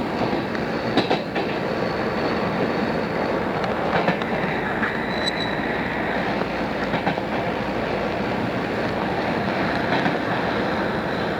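Odakyu 2600 series electric train running at speed, a steady rumble with the wheels clicking over rail joints now and then, heard through a cassette tape recording.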